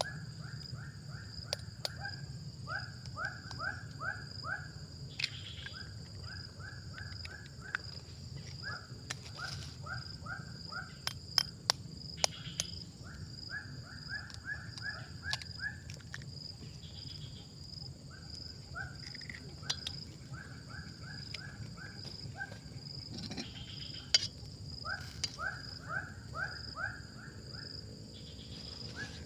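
Steady high insect drone, with an animal calling over it in repeated runs of five to seven quick rising notes, a run every couple of seconds. A few sharp clicks sound now and then.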